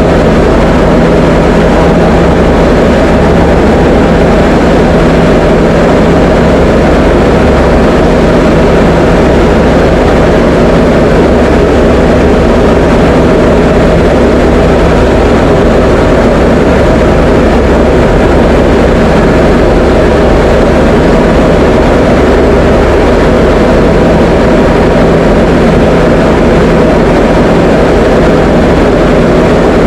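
Diamond DA20 light aircraft's four-cylinder piston engine and propeller running at a constant power setting, a loud, steady drone with a low hum that does not change.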